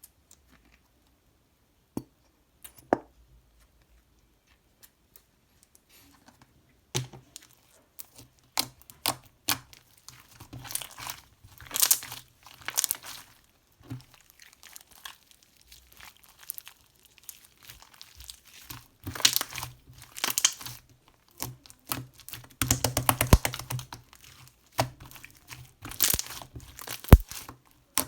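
Irregular crinkling and tearing, as of a material being crumpled or ripped by hand, in bursts with scattered sharp clicks. It starts sparse, with two clicks, and grows busier from about seven seconds in.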